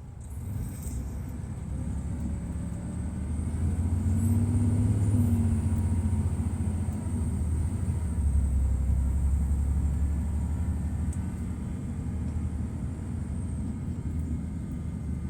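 Detroit Diesel Series 60 diesel engine of a 2002 MCI D4000 coach running under load, its deep rumble building over the first few seconds, staying strong through the middle and easing off near the end. A thin high-pitched whine rises with it and fades out near the end.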